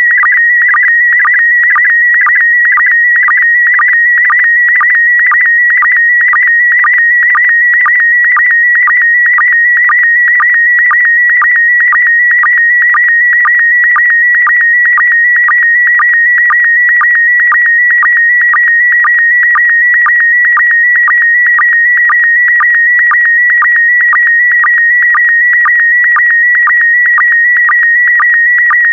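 Slow-scan television (SSTV) signal in PD120 mode transmitting an image. It is a loud, steady electronic tone near 2 kHz, broken by short, evenly spaced drops in pitch about twice a second: the line sync pulses that mark each scanned pair of image lines.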